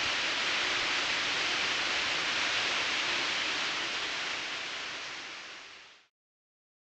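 Steady hissing, rushing noise with no music in it, fading out over the last second and a half and ending in silence about six seconds in.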